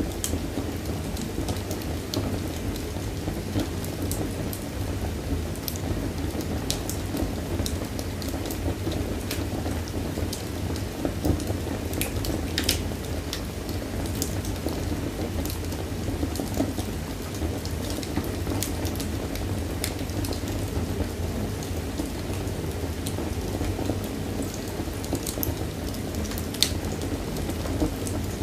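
Wood fire burning in a fireplace: a steady low rush of flames with dense crackling and scattered sharp pops from the burning wood.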